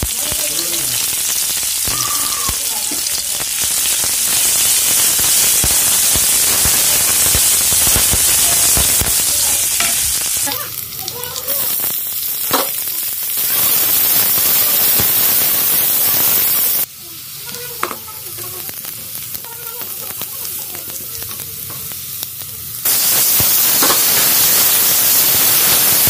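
Chopped onions, green chillies and tomatoes sizzling in hot oil in a wok, stirred with a wooden spatula with occasional scrapes and clicks against the pan. The sizzle is loud and steady, then softer for several seconds past the middle before picking up again.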